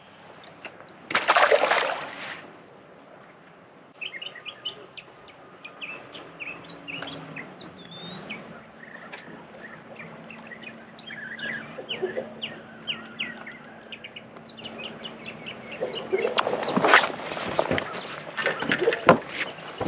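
Birds chirping in a rapid run of short calls, over a faint steady low hum. Loud bursts of noise come about a second in and again near the end.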